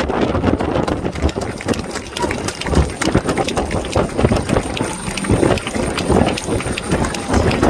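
HH-139 search-and-rescue helicopter (military AW139) with its main rotor chopping in a rapid, steady beat over turbine and downwash noise, with wind buffeting the microphone.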